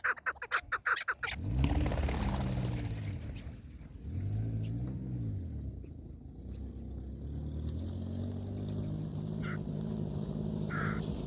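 A motor vehicle's engine revving up and down twice and then running steadily, as if driving off. It is preceded in the first second by a fast run of sharp chattering strokes that stops abruptly, with a few short faint calls near the end.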